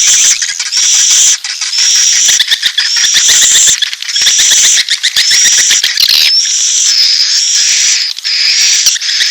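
Recorded swiftlet calls: rapid, high-pitched buzzy chirping trills repeating in phrases of about a second each. This is a swiftlet-house lure track that mixes mating calls with chick calls.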